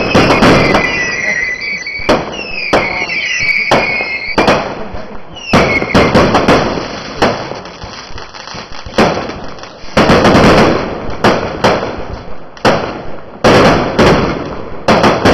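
Fireworks going off in quick succession: loud bangs, one after another, and bursts of crackling. High warbling squeals sound over the first four seconds or so.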